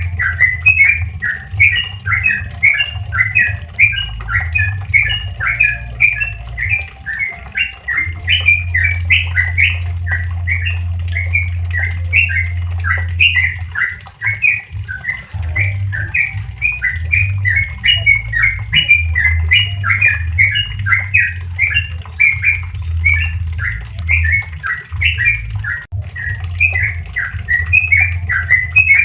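Yellow-vented bulbul (trucukan) singing its 'ropel' song: a continuous run of short, bubbly notes, several a second, without a pause.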